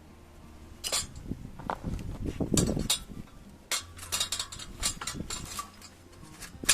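Cooking utensils and camp cookware being handled: an irregular run of clicks, clinks and knocks, with a few duller thuds near the middle.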